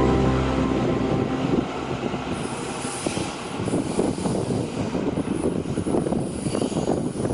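Music fades out in the first second or two, then a Taiwan Railways train runs past on the rails: a steady rumble of wheels with a thin, high squeal above it.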